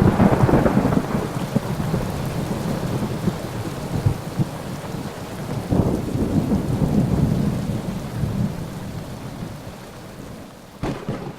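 Thunder rumbling over steady rain, loudest at the start and slowly dying away, with a sharp crack near the end.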